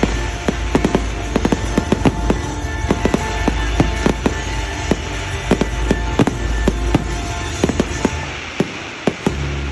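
Fireworks display: a rapid barrage of bangs and crackles, several a second over a low rumble, thinning out near the end, with music playing underneath.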